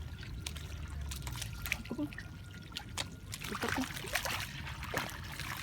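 Water trickling and dripping, with small sharp splashes and spatters.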